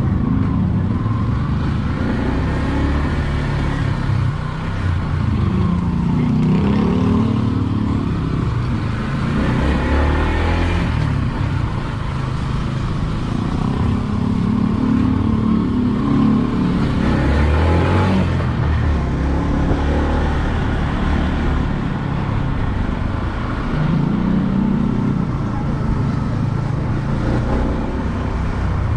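Motorcycle engine running under way, its pitch rising and falling several times with the throttle, over steady road and wind noise.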